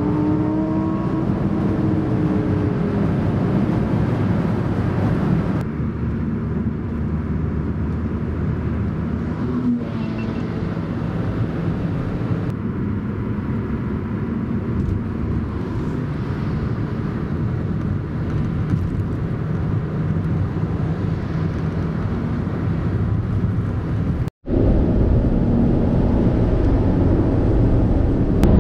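Supercar engines and heavy wind and tyre noise at motorway speed, recorded from a car following close behind. The engine note falls in pitch over the first few seconds, then runs steadily through several short clips, with a brief gap at one cut near the end.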